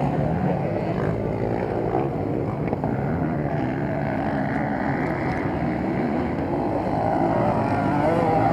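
Motocross motorcycle engines running on the track, their pitch wavering up and down as the riders rev and shift, a little louder near the end.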